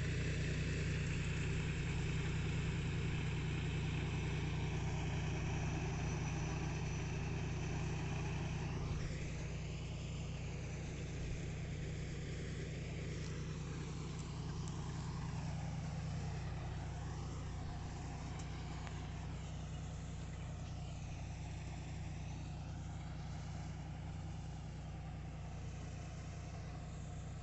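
Tractor engine running steadily while pulling a plough, a low even drone that slowly grows fainter.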